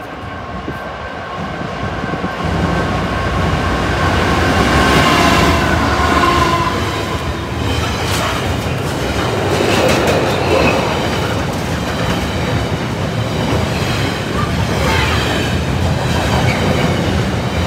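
Freightliner Class 66 diesel locomotive and its container wagons passing close by, growing louder over the first few seconds. The rest is a steady rumble of the wagons, with the clack of wheels over the rail joints.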